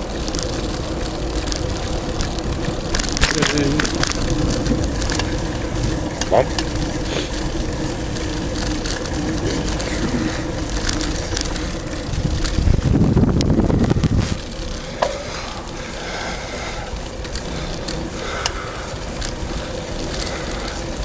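Riding noise from a moving bicycle: steady rushing wind and road noise with scattered clicks and rattles. A bump in the road gives a few sharp knocks about five seconds in, and a louder low rumble comes past the middle for about a second and a half.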